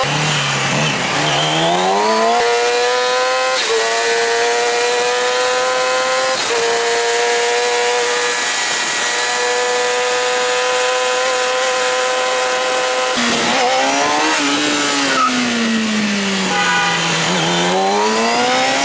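Small motorbike engine pulling away and accelerating through the gears, its pitch climbing and dropping back at each of two shifts, then holding a steady cruise. Near the end the revs drop and climb again.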